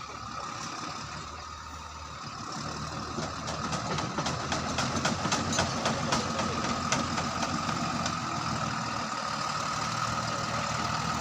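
Diesel engine of a Tata LPT 3118 cargo truck running, picking up revs and getting louder about three seconds in as the truck is backed up, with a steady high-pitched tone over it and some clicking in the middle.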